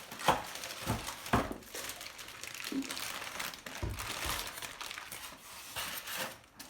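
Packaging being handled and unwrapped: continuous crinkling and rustling, with a few sharp clicks in the first second and a half and a dull knock about four seconds in.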